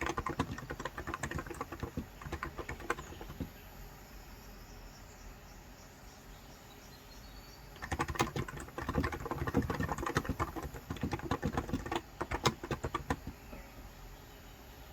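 Typing on a COX Endeavor tenkeyless keyboard with 35 g contactless electrostatic-capacitive switches: quick runs of muted keystrokes. There are two bursts of typing with a pause of about five seconds between them.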